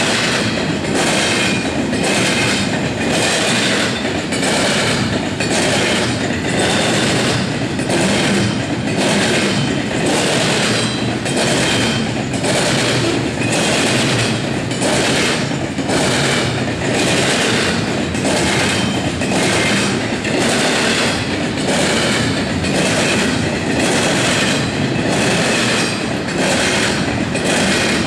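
Freight train cars rolling past at a steady speed, wheels clicking over the track in a regular clickety-clack, with faint brief wheel squeals now and then.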